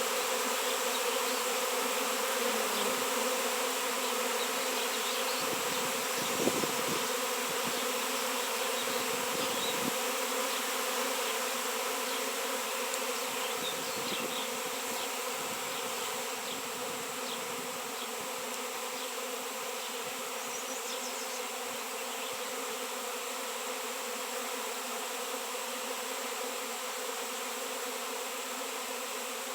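Swarm of honey bees buzzing, a dense, steady hum of many wings, easing slightly in loudness toward the end.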